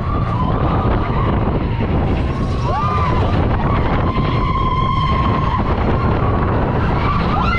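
Big Thunder Mountain Railroad mine-train roller coaster running along its track: a loud, steady rumble and rush of air, with a few high wavering tones over it.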